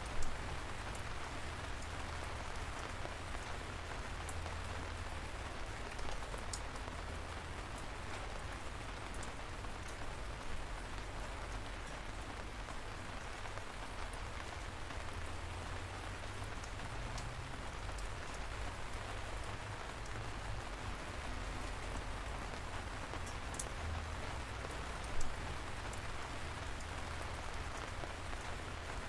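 Light rain falling steadily, an even patter with scattered sharp ticks of single drops striking nearby. Two louder drop hits come, one just after the start and one near the end.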